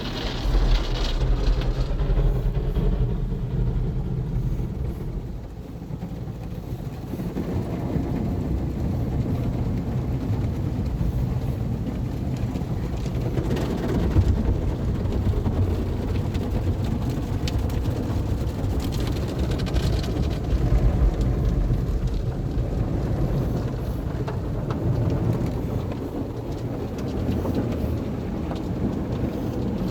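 Automatic car wash running over a car: a steady low rumble with a wash of noise over it, swelling at a few moments.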